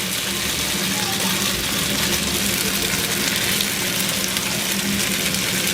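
Food frying in hot oil in a pan, a steady sizzle with a low hum underneath.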